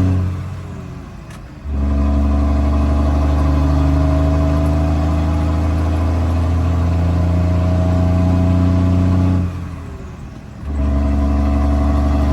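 Straight-piped Cummins L10 diesel in a Ford L9000 dump truck pulling hard under load, its pitch slowly climbing through a gear. Twice the sound drops away for about a second while the revs fall, once near the start and again near the end, as the driver lifts off for a gear change, then it comes back loud.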